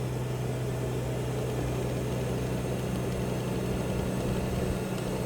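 Aerial bucket truck's engine and hydraulic boom running with a steady hum as the bucket is moved back out and over.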